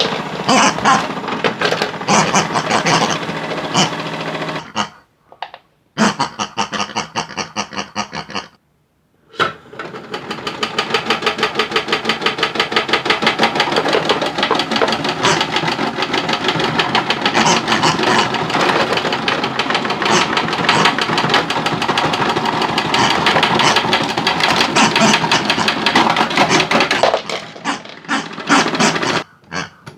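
A fast, even mechanical rattle like a small motor or power tool, with two short breaks in the first ten seconds.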